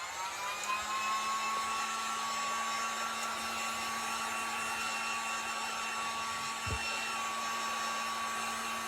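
A hand-held hot-air blower spinning up with a rising whine and then running steadily, drying a fresh coat of black chalk paint. A single soft knock sounds about two-thirds of the way through.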